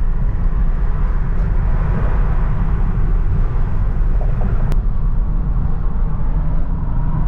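Steady low rumble of a car on the move, with a single sharp click about two-thirds of the way through.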